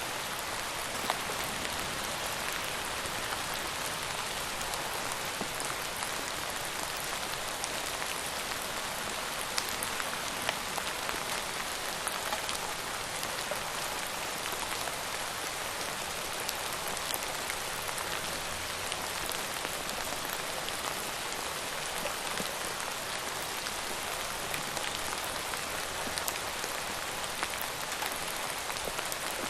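Steady rain falling on a surface, a dense hiss with scattered individual drop ticks.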